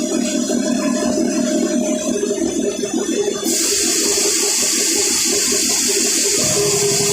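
A motor runs with a steady pulsing note. About three and a half seconds in, a loud steady hiss of rushing compressed air starts over it, as when a large tractor tire is aired up or air is let out of it.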